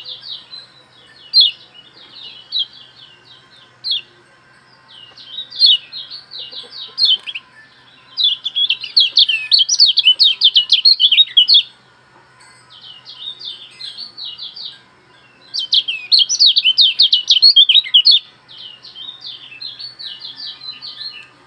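A songbird singing in long phrases of rapid, high-pitched chattering trills. It is loudest in two dense runs of fast repeated notes, about eight and fifteen seconds in, over a faint steady hum.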